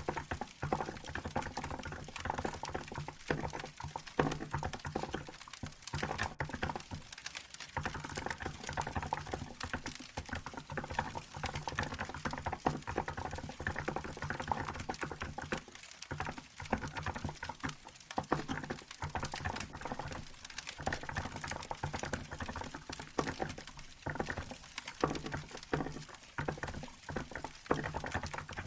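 Continuous typing on a Hansung GK868B electro-capacitive keyboard with milk-white keycaps: a dense, irregular stream of keystrokes. A crackling wood fire runs underneath.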